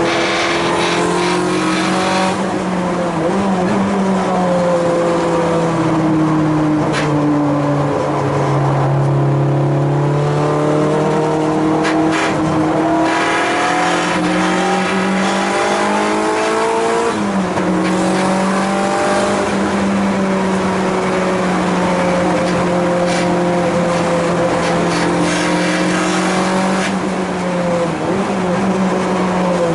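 Race car engine under load on track, its pitch climbing and falling through gear changes and corners, with a long steady stretch at high revs in the second half.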